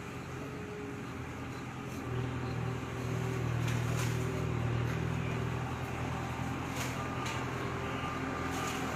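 An engine running steadily with a low hum that grows louder about two seconds in.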